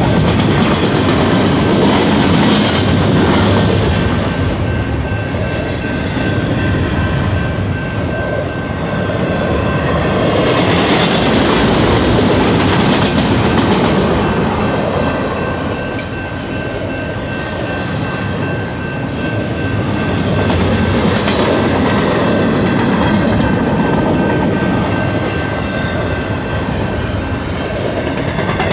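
Freight train cars rolling past at a grade crossing, the wheels rumbling and clattering over the rail joints, swelling and easing as the cars go by. A thin steady high tone rides over the rumble.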